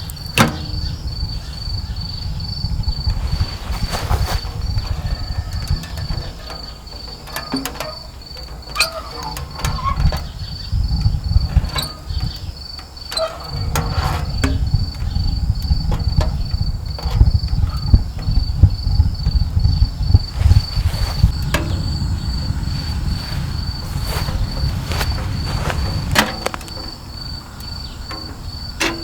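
A cricket chirping steadily, a high pulse repeating about two to three times a second, over a low uneven rumble with scattered clicks and knocks.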